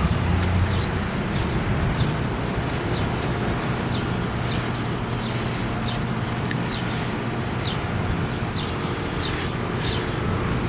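Strong wind ahead of a thunderstorm buffeting the microphone, a steady low rumbling rush, with short high chirps from birds repeating every second or so.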